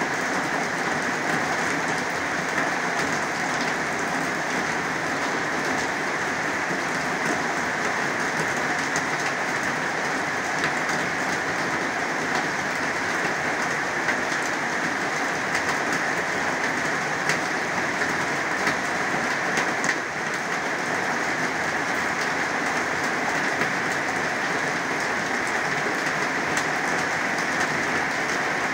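Heavy rain falling steadily: a dense, even hiss, with scattered sharper drop hits.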